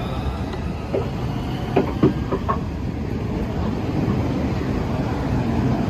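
Southeastern Class 395 Javelin electric train moving past along the platform: a steady rumble of wheels on rail, with a few sharp clicks about one to two and a half seconds in.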